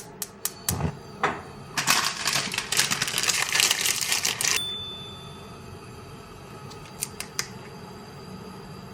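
Kitchen food-preparation sounds: a run of sharp clicks and taps, then about three seconds of loud rushing noise that cuts off, followed by a low steady hum with a few more clicks.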